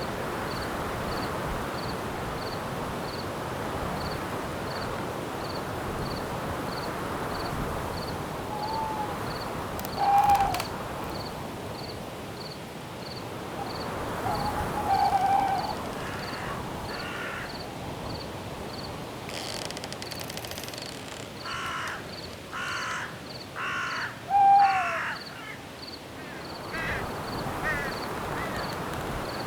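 Night forest ambience: a steady wash of wind with a faint high cricket chirp repeating evenly, about one and a half times a second. Over it come several short bird calls, the loudest a run of harsh crow-like caws about three-quarters of the way through.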